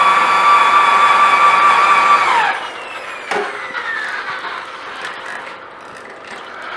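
Electric rotary car polisher running at speed with a steady high whine, then switched off about two seconds in and spinning down with a falling pitch, followed by a single click.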